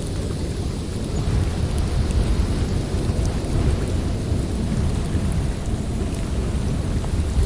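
Snowstorm wind blowing through a forest: a steady, low rumbling rush of noise.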